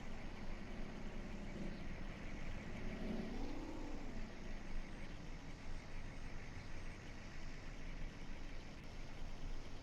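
A motor vehicle's engine over steady background noise, its pitch rising and then falling back once about three seconds in.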